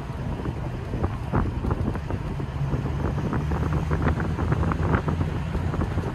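TVR V8 engine burbling at a steady, gentle cruise, heard from the open-top cabin, with wind buffeting the microphone throughout.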